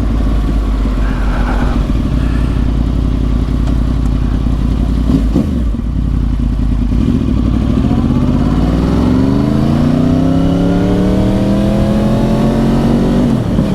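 2010 Yamaha R1's crossplane inline-four, through a dual Yoshimura exhaust, running under way. After a brief break about halfway through, the engine note climbs steadily as the bike accelerates, with a short dip near the end like a gear change.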